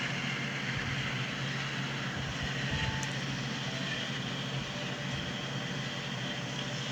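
Diesel locomotives of a CSX freight train coming in, a steady low drone with rail noise.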